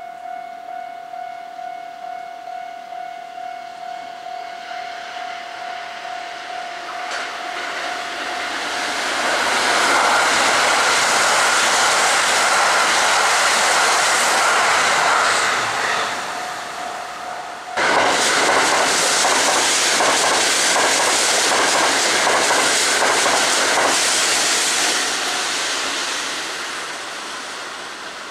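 Kintetsu limited express electric trains passing on the line, the wheels clattering over the rail joints. The noise builds to a loud peak for several seconds near the middle, then a second loud passage with a fast, even clatter starts suddenly about two-thirds of the way through and fades near the end. A high ringing warning tone pulses about twice a second before the first train arrives.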